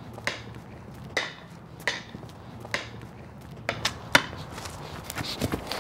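Footsteps on a hard surface: a series of sharp single steps, roughly one a second, with a couple closer together near the end.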